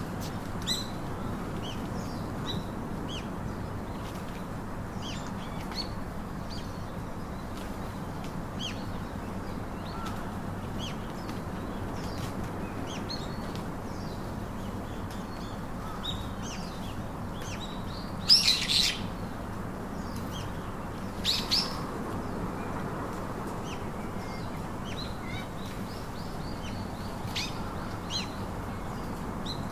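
Parakeets chirping in short, scattered high calls, with two louder calls about 18 and 21 seconds in, over a steady low background noise.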